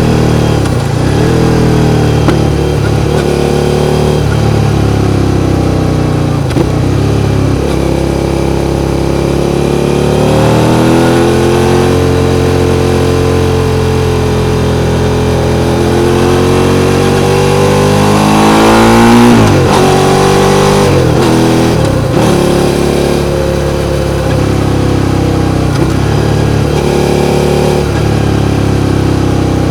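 Suzuki SV650's V-twin engine running under changing throttle, its pitch dipping and recovering every second or two. Near the middle the revs climb for several seconds, then drop sharply, after which the dips resume.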